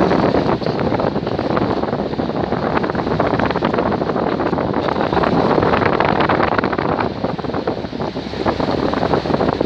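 Wind buffeting the microphone in a dense, continuous rush, with a steady low rumble beneath.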